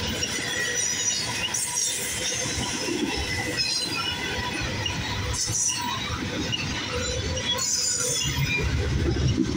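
Double-stack intermodal freight cars rolling past: a steady rumble of steel wheels on rail, with several brief high-pitched wheel squeals.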